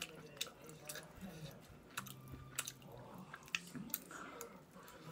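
A person chewing a mouthful of kimchi fried rice, with several sharp clicks of a metal spoon.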